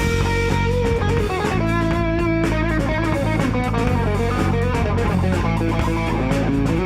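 Live rock band playing an instrumental passage: an electric guitar plays a run of notes over bass guitar and drum kit.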